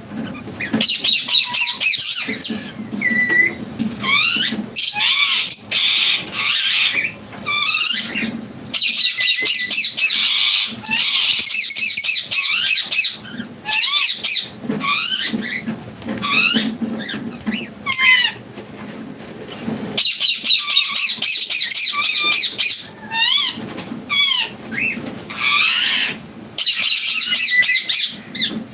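A flock of small caged birds chirping and chattering together: a dense stream of quick, high chirps and sweeping calls, broken by brief pauses.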